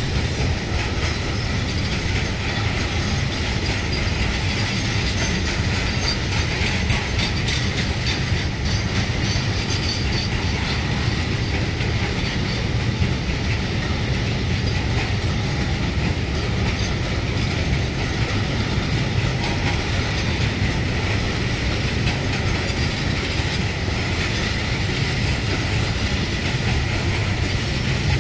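Container freight train's wagons rolling steadily past, their wheels running over the rails in a continuous rumble.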